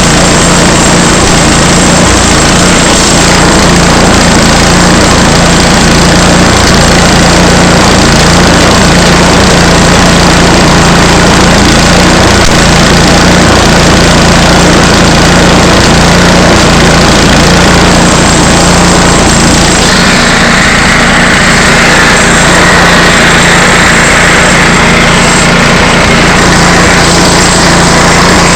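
Small gas engine running steadily under load, as of a log sawmill cutting. About two-thirds of the way through, a higher hiss joins the engine sound and carries on to the end.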